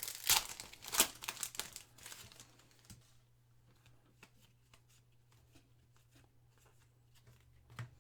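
Foil wrapper of a football card pack being torn and crinkled, loudest in the first two seconds, then faint clicks and rustles of cards being handled.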